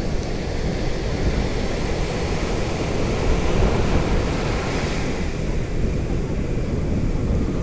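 Sea waves washing in a bay, with wind rumbling on the microphone; a wave surges up, louder and brighter, about three to five seconds in, then eases.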